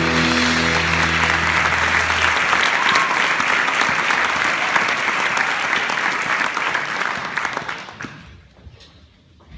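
Audience applauding as a song's last guitar chord dies away about two seconds in; the clapping goes on steadily, then fades out near the end.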